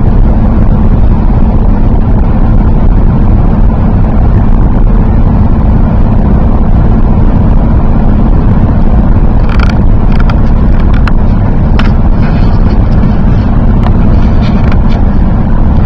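Car driving, heard from inside the cabin: a steady, loud low rumble of road and engine noise, with a few sharp clicks in the second half.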